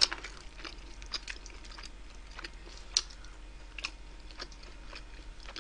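A person chewing mouthfuls of wood-fired roast chicken, with scattered sharp, wet mouth clicks every second or so.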